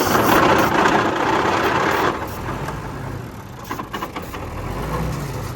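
John Deere diesel engine being cranked on the starter with ether sprayed into the intake. It fires unevenly and does not settle into running on its own, a sign of air in the fuel system that the ether is meant to carry it through. It is loudest for the first two seconds, then a lower, uneven rumble that swells again near the end.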